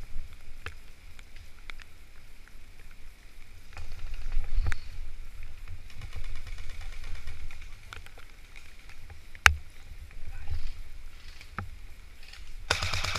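Low rumble of wind and movement on the microphone with scattered single sharp cracks of airsoft guns firing. Near the end comes a rapid, evenly spaced burst of full-auto airsoft fire.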